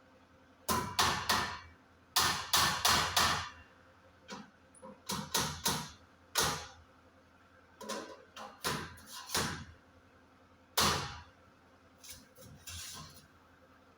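Hammer blows on metal, struck in short clusters of two to five quick hits with pauses between.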